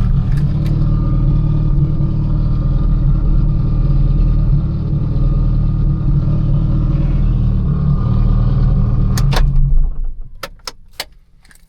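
Mitsubishi Lancer Evolution IX's turbocharged 4G63 four-cylinder running steadily, heard from inside the cabin, with no taillight rattle audible: the owner takes the rattle as cured. About ten seconds in the engine noise stops abruptly, and a few sharp clicks follow.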